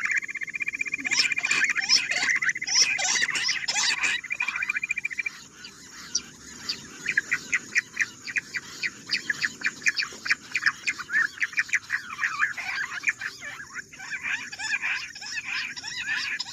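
Bush quail calling: fast runs of short, high chirping notes, several a second. Under the first five seconds runs a steady high trill, which stops about five seconds in.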